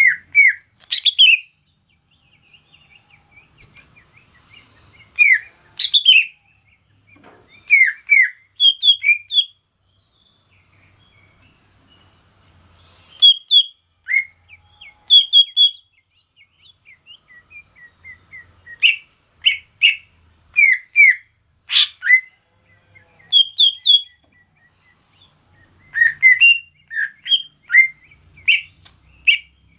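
Greater green leafbird (cucak ijo) singing: bursts of short, loud, slurred whistled notes every few seconds, over a steady high-pitched hiss.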